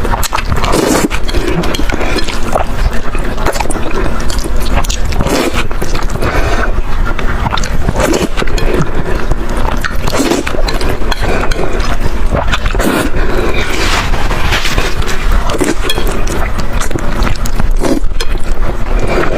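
Close-miked eating sounds: noodles being slurped and chewed, in irregular wet bursts.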